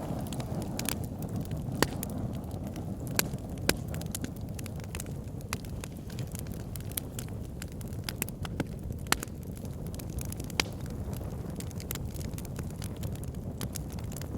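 Fire pit fire crackling: a steady low rumble of flames with irregular sharp pops and snaps, a few of them louder than the rest.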